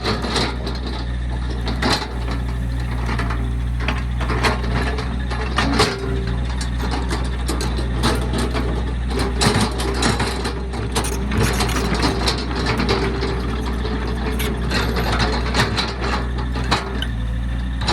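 Diesel excavator engine running steadily, with frequent sharp metallic clanks and rattles from the working machine.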